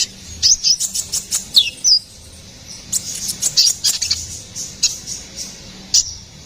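Konin (kolibri ninja) sunbird singing in rapid runs of sharp, high chirps and short downward-sliding notes, with a pause of about a second near the middle.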